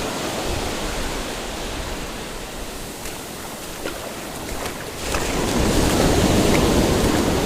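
Ocean surf washing onto the beach, a steady rush that swells louder about five seconds in as a wave comes in.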